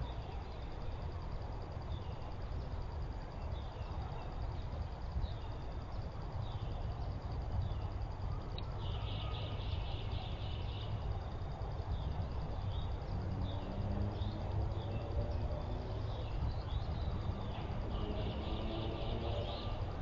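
Small wild birds calling: short sharp chip notes repeated every second or two, with two brief rapid trills about nine and eighteen seconds in, over a steady low outdoor rumble.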